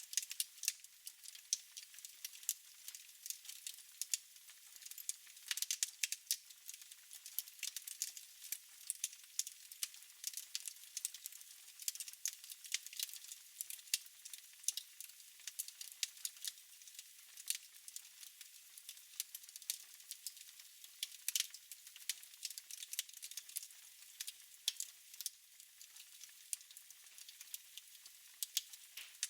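Wood fire crackling in a fireplace: a steady soft hiss with many irregular sharp pops and snaps.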